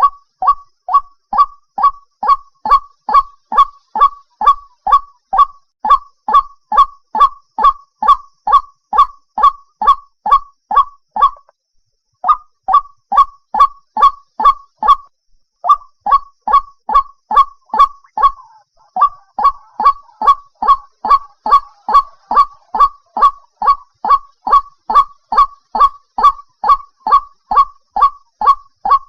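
White-breasted waterhen calling: a fast, even series of short, loud 'kwak' notes, about two to three a second, each sweeping up to a high pitch, with two brief pauses partway through. This is the call used as a lure for trapping the bird at night.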